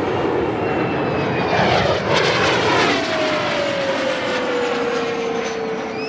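Kawasaki T-4 jet trainer of the Blue Impulse team flying past during an aerobatic display: loud jet noise that peaks about two seconds in, then a turbine whine that falls steadily in pitch as the jet passes and moves away.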